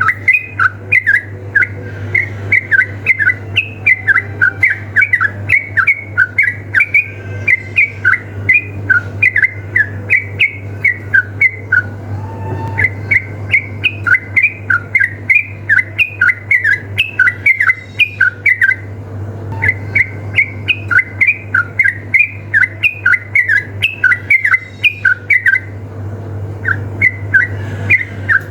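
Yellow-vented bulbul (trucukan) calling in rapid-fire 'ropel' bursts: a fast, continuous run of short bubbly chirps that pauses briefly a few times. A steady low hum runs underneath.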